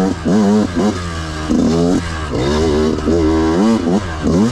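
Two-stroke dirt bike engine, a Yamaha YZ125, revving up and dropping back in quick surges about once a second as the rider works the throttle and gears.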